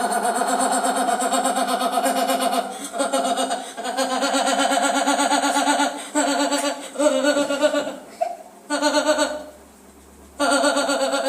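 A person performing an exaggerated fake laugh: long strings of rapid, high, pulsing 'ha-ha' bursts in several bouts, with short breaks between them and a longer pause near the end.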